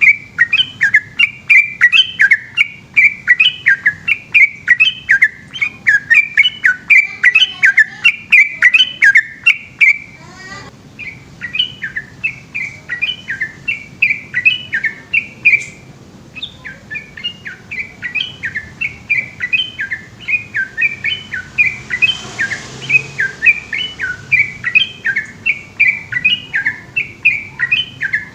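Yellow-vented bulbul (trucukan) singing a long, fast run of repeated up-and-down whistled notes, about two to three a second, breaking off briefly about ten and sixteen seconds in.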